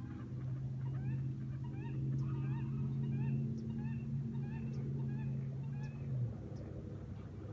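Birds calling in a rapid flurry of short chirping calls, over a steady low hum that stops abruptly about six seconds in.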